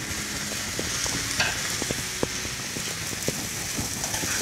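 Oil and food sizzling in a wok as a steel spatula stirs soaked tapioca pearls into fried potatoes and onions, with a steady hiss and irregular clicks and scrapes of the spatula against the pan.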